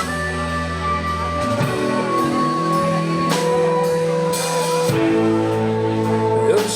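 Live rock band playing an instrumental passage of a song: drum kit and guitar over bass, with long held notes that change every second or two.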